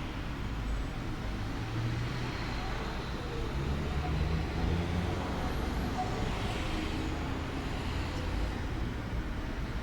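Steady low rumble of distant road traffic, with a faint engine hum swelling about four seconds in.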